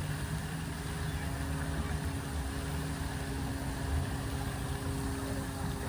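Steady low mechanical hum with a few held tones, like an engine or machine running at idle.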